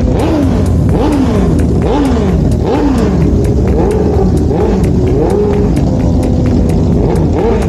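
Drag-racing motorcycle engines revving, the pitch repeatedly rising and dropping as the throttle is blipped over and over.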